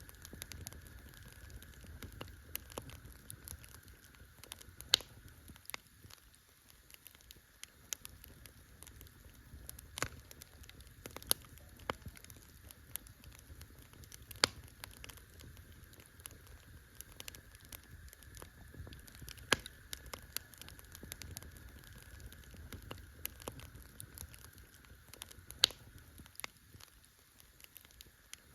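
Wood campfire crackling: irregular sharp pops and snaps of burning wood, with a few louder snaps every several seconds, over a faint low rumble.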